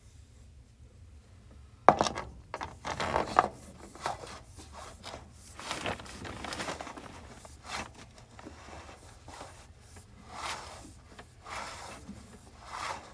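Sewer inspection camera's push cable being handled and fed into a crawl-space cleanout: a sharp knock about two seconds in, then irregular rubbing and scraping.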